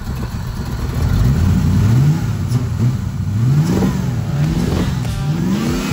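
Car engine being revved in repeated blips, its pitch rising and falling about once a second.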